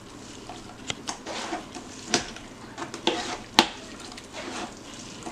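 Metal kitchenware clinking and scraping as blended green sauce is pressed through a strainer into a pot, with a few sharp clinks about two, three and three and a half seconds in.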